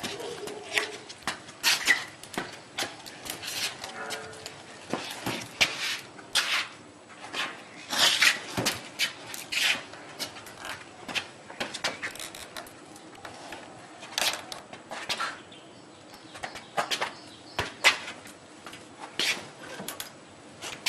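Irregular footsteps with sharp clicks and knocks, several a second, as a motorcycle is pushed by hand with its engine off.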